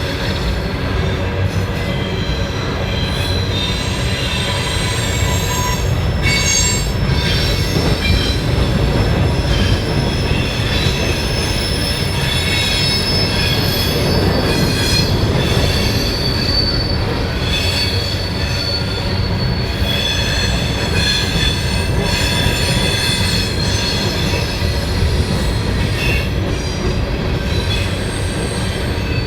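A train rolling past: a steady low rumble of wheels on rail, with high-pitched wheel squeal throughout.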